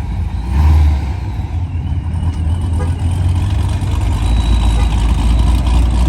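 Car engines running with a heavy, steady low rumble, swelling briefly louder a little over half a second in.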